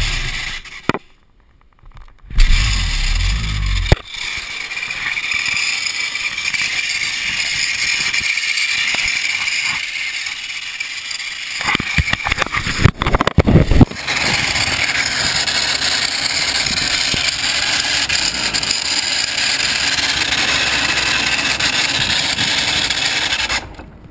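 Suzuki RMX250S two-stroke single-cylinder engine running, with the abnormal noise (異音) its owner is recording. There is a loud low burst a couple of seconds in, and a louder, uneven stretch about halfway through before it settles back to steady running.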